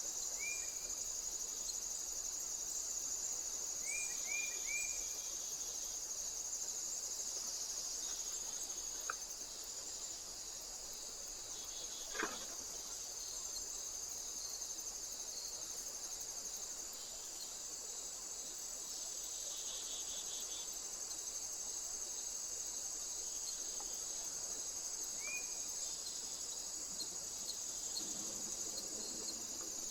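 Crickets and other insects chirping in a steady, high-pitched chorus, with a few short chirps in quick groups now and then. There is a single sharp click about twelve seconds in.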